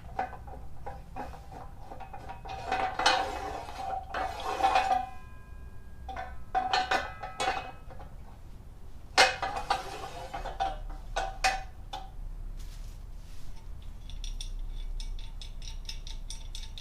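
Steel parts of a motorcycle lift jack clinking and clanking as they are handled and fitted together, in several bursts of knocks and rattles, some of them leaving a short metallic ring.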